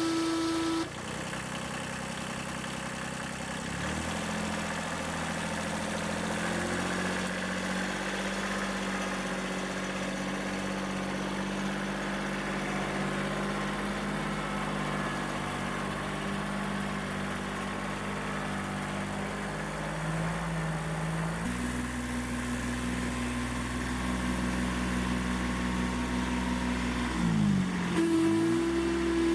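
Kubota B6100 compact tractor's diesel engine running, its speed shifting in steps a few times, then briefly dropping and picking back up near the end.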